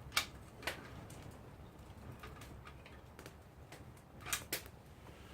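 Campfire wood crackling, with scattered sharp pops: two loud ones in the first second and two more about four seconds in.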